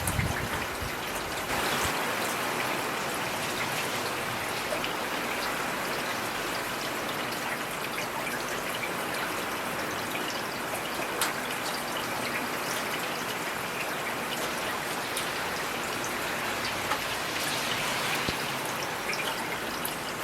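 Heavy rain falling steadily, with many separate drops ticking sharply over the dense hiss. A brief low thump comes right at the start.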